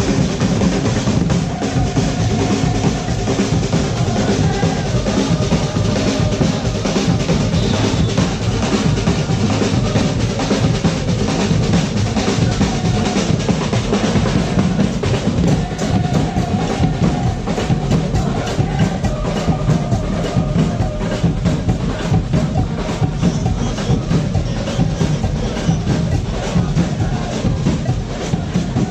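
Drum-led percussion music with snare and bass drums, playing a dense, steady beat with rolls.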